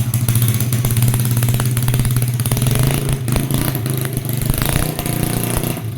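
Custom mini bike's small single-cylinder four-stroke engine, taken from a Honda Supra Fit motorcycle, running steadily with a rapid, even firing beat and some clatter.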